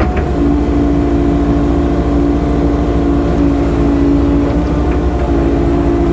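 Hydraulic excavator's diesel engine running steadily under working load while it digs and swings, its pitch dipping slightly as the hydraulics take up load.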